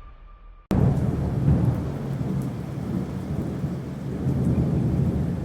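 A steady, dense rushing and rumbling noise like heavy rain with thunder, cutting in abruptly about a second in.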